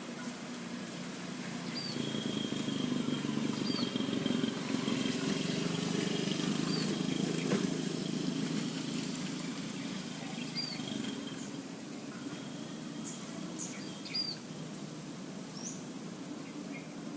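Scattered short, high bird chirps over a thin steady high tone. A low rumble swells from about two seconds in and fades by about eleven seconds.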